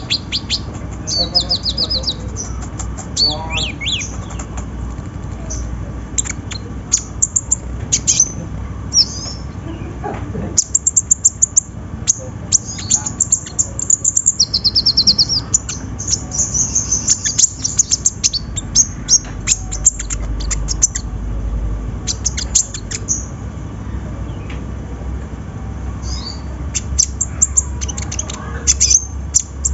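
Kolibri ninja (konin), a sunbird, singing a fast, high-pitched chattering song of short chirps broken by quick buzzy trills, in bursts with brief pauses. A steady low hum runs underneath.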